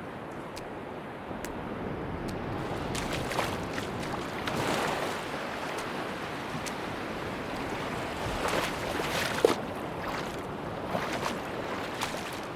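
Sea waves washing onto a beach, swelling and easing twice, with scattered small ticks and splashes.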